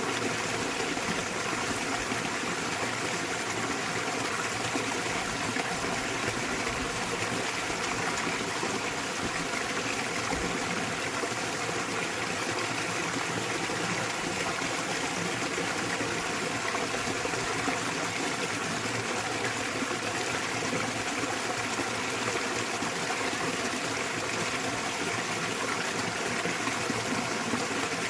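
Small waterfall in a mountain stream, water falling and flowing steadily.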